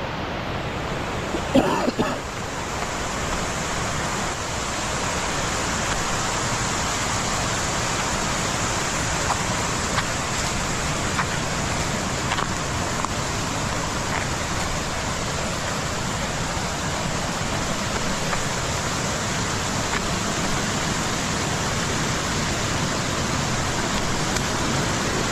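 Running water rushing steadily, with a couple of brief knocks about two seconds in.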